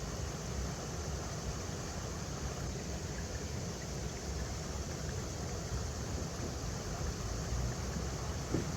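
River water flowing over rocks: a steady, even rush with a deep low rumble underneath, and one brief knock near the end.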